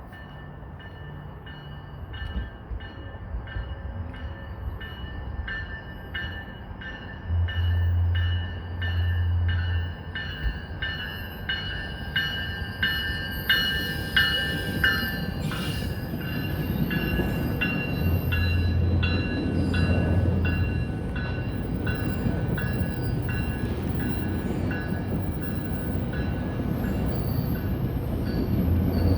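GO Transit commuter train passing, with its cab car leading. A bell rings steadily about twice a second, then fades after about twenty seconds. From about halfway in, the rumble and clatter of the wheels on the rails builds up and continues.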